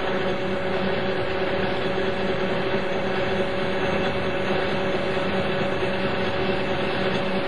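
Centre lathe running steadily while turning a shoulder bolt: an even machine hum with several fixed tones and no sudden changes.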